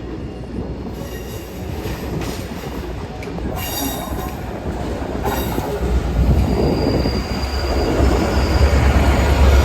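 Train moving along the track at a level crossing with its wheels squealing in high thin tones, getting louder throughout, with a heavy low rumble from about six seconds in.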